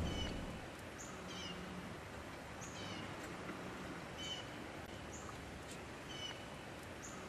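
A small songbird singing repeated short, high phrases that each drop in pitch, about one a second, with a faint low hum beneath.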